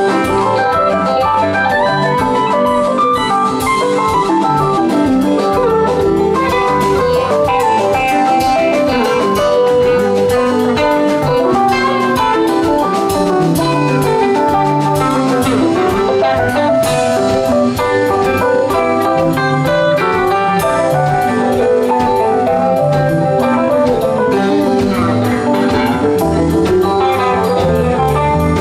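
Live rock band playing an instrumental passage: a melodic electric guitar line over bass guitar, drum kit and keyboards.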